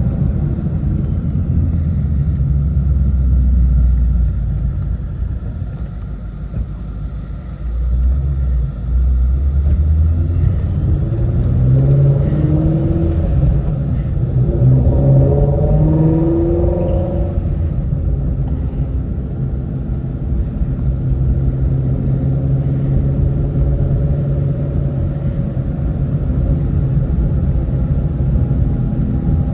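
Shelby GT350's 5.2-litre flat-plane-crank V8 running on the road, heard from inside the cabin with road rumble. Partway through, the engine note climbs in pitch for several seconds as the car accelerates, then settles back to a steady cruising drone.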